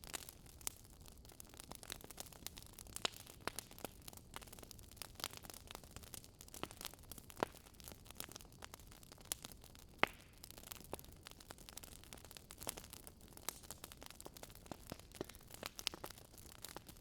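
Wood fire crackling: irregular sharp pops and snaps over a soft steady hiss, the loudest pops about three, seven and ten seconds in.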